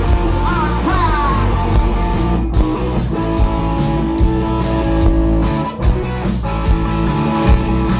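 A rock band playing an instrumental stretch: electric guitar over bass and drums, with cymbals marking a steady beat.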